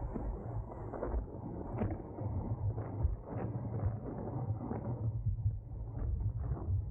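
Racing bicycle rolling at speed: wind buffeting the microphone and tyre and road rumble, with scattered clicks and rattles.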